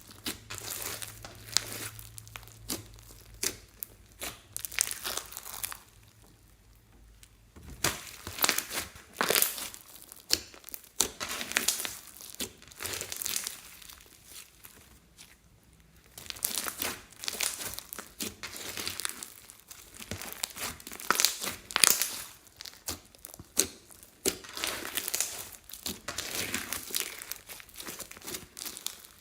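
Slime being squeezed and worked by hand: dense, irregular sticky clicks and crackles, with two short pauses.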